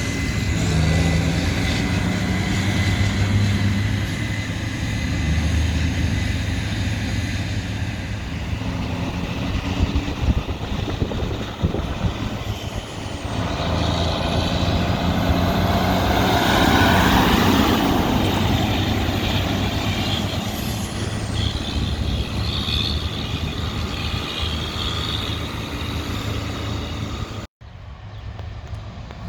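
Heavy diesel engine of a large harvest machine or truck running steadily, swelling louder about halfway through as it passes close, then cut off abruptly near the end.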